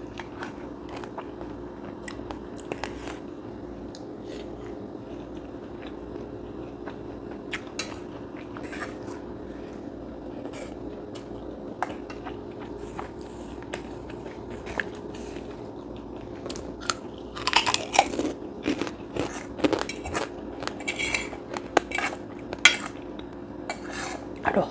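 Crunching and chewing food close to the microphone, with louder clinks of cutlery on a plate in the last several seconds. A steady low hum runs underneath.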